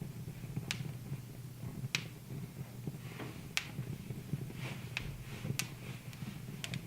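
Wood fire crackling in a fireplace: about half a dozen sharp, irregularly spaced pops over a steady low rumble of the flames.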